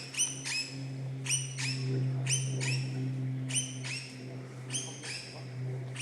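A rainforest bird calling over and over: short, high calls that rise and then hold, mostly in quick pairs about once a second. Underneath runs a steady low drone of a distant aircraft.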